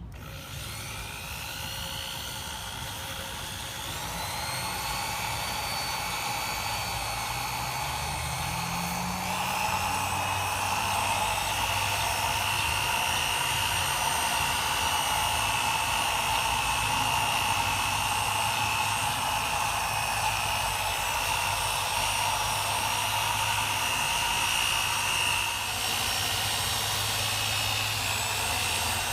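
Power drill spinning a 3M P500 sanding disc against a plastic headlight lens, with a steady high whine. It speeds up over the first few seconds and again about four and nine seconds in, then runs evenly, with a brief dip in level near the end.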